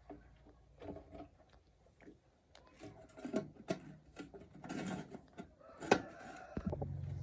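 Scattered knocks and clatter of handling, then about six and a half seconds in a steady low humming sound with a rapid pulse starts up and keeps going.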